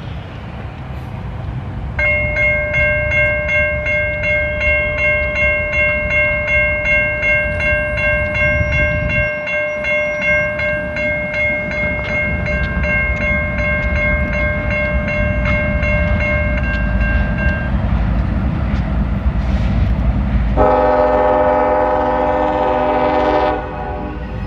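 CSX train rumbling past while a grade-crossing bell rings steadily for about fifteen seconds. Near the end the locomotive horn sounds one blast of about three seconds.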